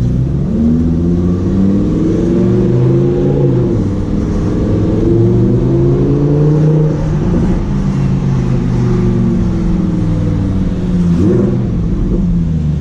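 A car engine accelerating hard. Its pitch climbs and drops back several times, as in shifts up through the gears.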